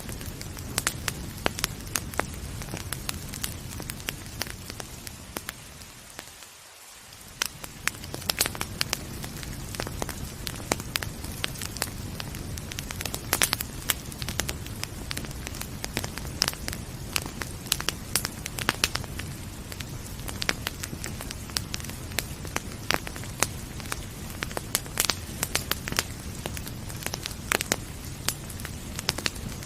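Wood fire crackling with frequent sharp pops and snaps over a steady hiss of rain. The background hiss dips briefly about seven seconds in.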